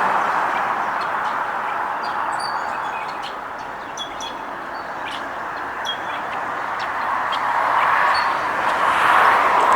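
Road traffic hiss of passing cars, fading away about four seconds in and swelling again toward the end, with small birds chirping in short high notes through the middle.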